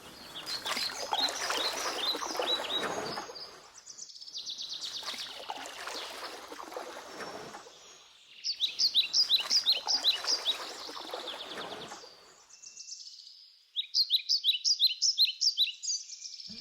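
Birds calling in series of rapid, repeated high chirps, over a rushing noise that swells and fades three times.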